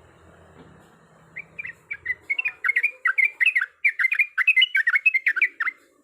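Yellow-vented bulbul (trucuk) singing a rapid, bubbly rolling phrase of many quick notes. It starts about a second and a half in and stops abruptly near the end. This is the long 'ropel' song that bird keepers play as a lure to provoke a rival.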